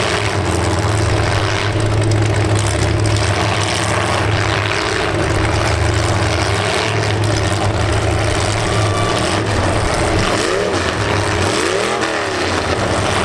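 Demolition derby car engines running with a loud, steady low drone. Near the end, an engine revs up and back down twice.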